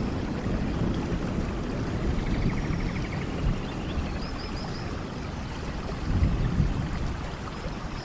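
Heavy rain falling steadily with a low rumble of thunder, swelling about six seconds in. A few faint high chirps sound briefly about four seconds in.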